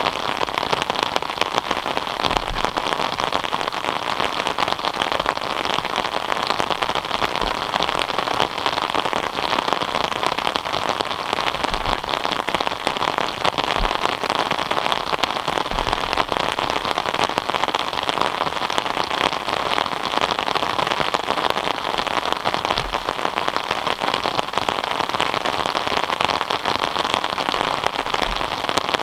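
Steady rain falling, a dense haze of fine drop impacts, with a few short low thumps scattered through.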